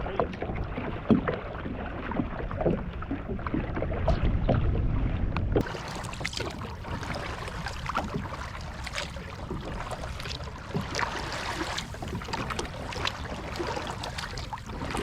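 Kayak paddling: paddle blades splashing and water dripping, with a low wind rumble on the microphone for the first few seconds. About five and a half seconds in the sound changes abruptly, and the splashes and drips come through brighter and more often.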